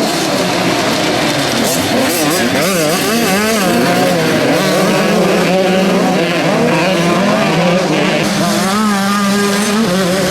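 Several motocross bikes' engines revving up and down together as they race around the track, the pitch rising and falling with throttle and gear changes.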